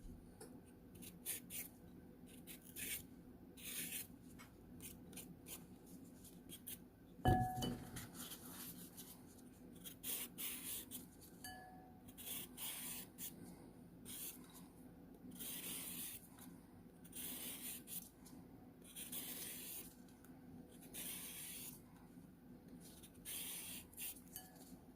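Faint, repeated rasping strokes of a kitchen tool scraping raw carrots. The strokes are short and irregular at first, then longer and about one a second; a single knock about seven seconds in is the loudest sound.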